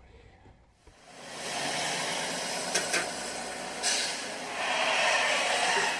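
Steady road and wind noise of a moving vehicle that fades in after about a second of near silence, with a few brief knocks about three and four seconds in.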